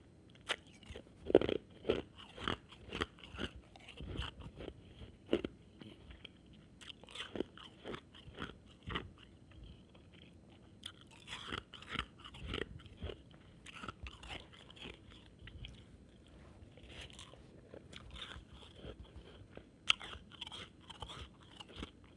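Shaved ice being bitten and chewed close to the microphone: a run of irregular crisp crunches with short pauses between mouthfuls.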